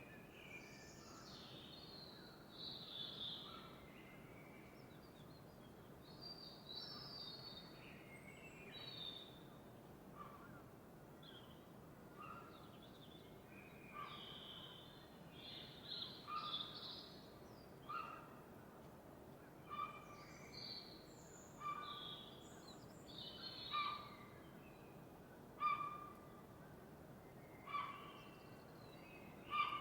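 Several birds singing in a dawn chorus: varied short chirps and whistles at different pitches over a faint steady background hiss. From about halfway on, one short call repeats roughly every two seconds, getting louder towards the end.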